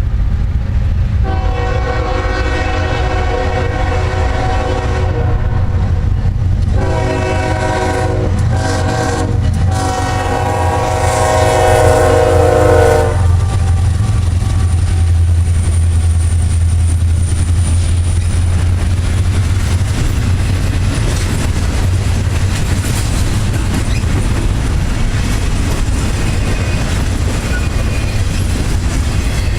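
Locomotive air horn sounding a series of blasts, the last one long, ending about 13 seconds in, over the steady low rumble of a train running by on the rails.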